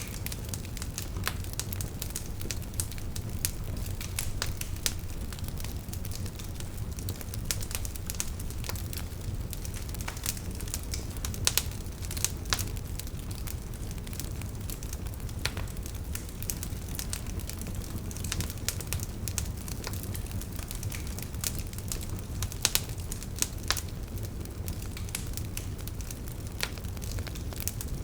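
Burning logs crackling, with irregular sharp pops and snaps over a steady low rumble of the flames.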